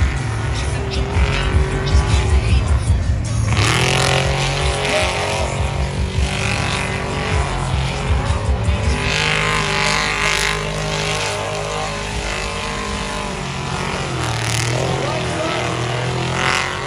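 Drift cars' engines revving hard, rising and falling in pitch, with tyres squealing in spells.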